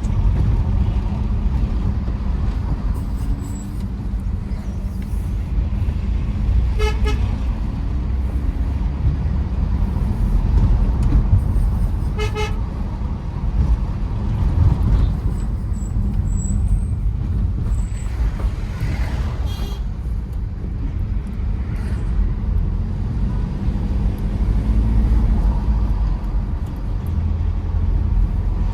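Tata Safari Storme SUV driving, with a steady low engine and road rumble. A short horn toot sounds about seven seconds in and another about twelve seconds in.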